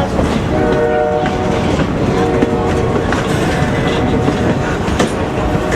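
Locomotive horn sounding its chord in several blasts over the steady rumble and clickety-clack of a train's wheels on the rails as the train departs.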